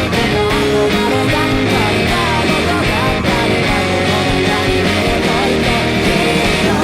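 Guitar played with a full rock band backing track, with bass and a steady drum beat underneath.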